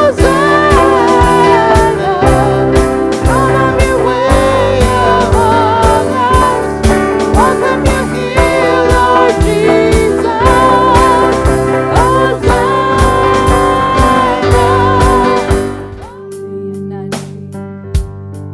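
Worship band playing a praise song, with a steady drum beat under a sung or guitar melody line. About sixteen seconds in, the drums drop out and the music falls quieter to held chords.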